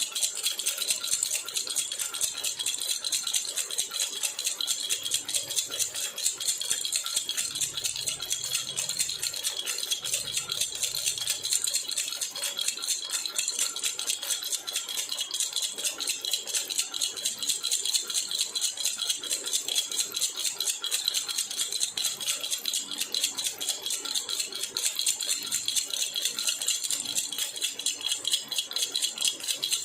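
Metal baby rattle (jhunjhuna) shaken steadily, a fast, even jingling of small bells and beads.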